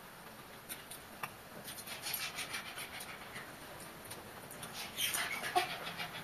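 Wet chewing and lip-smacking of people eating rice and fish curry by hand: clusters of short, moist clicks, about two seconds in and again around five seconds in.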